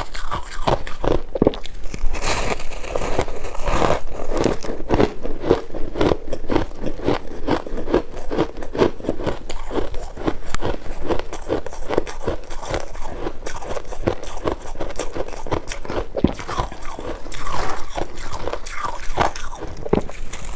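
Close-up crunching of freezer frost chunks being bitten and chewed, a steady run of sharp, crackly crunches, several a second.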